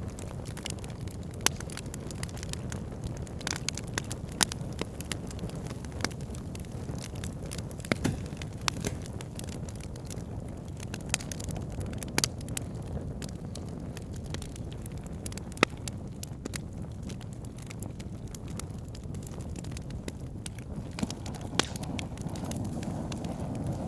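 Wood fire burning in a fireplace: a steady low rumble of flames with scattered sharp crackles and pops, a handful of them noticeably louder than the rest.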